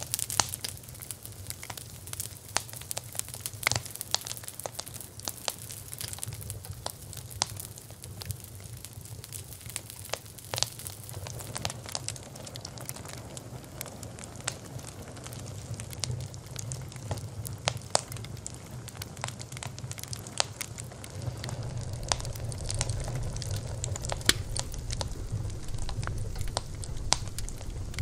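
Bonfire crackling: burning wood giving many sharp, irregular pops and snaps over a low steady rumble, which grows louder about three-quarters of the way through.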